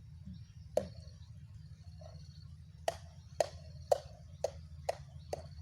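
A run of sharp knocks, one about a second in and then about two a second from around three seconds in, over a steady low rumble.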